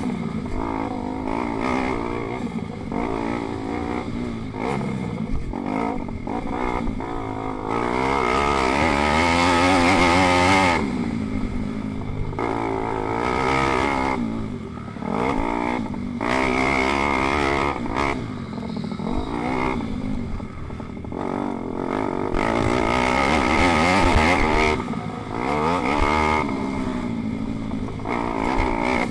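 Pit bike engines racing, revving up and falling back again and again as they work through the gears. They get louder about eight seconds in and again around twenty-two seconds in.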